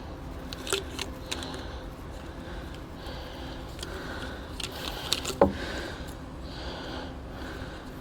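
A few short clicks and knocks of small objects being handled, the loudest about five seconds in, over a steady low hum.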